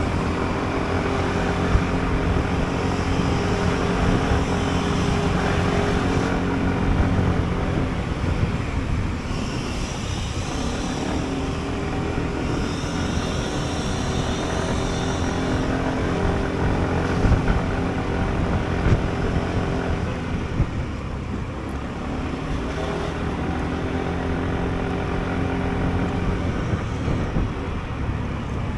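Sym Jet X 125 scooter's single-cylinder engine running under way, with wind and road noise. The engine note drops off about ten seconds in and again about twenty-one seconds in, then picks back up as the rider accelerates.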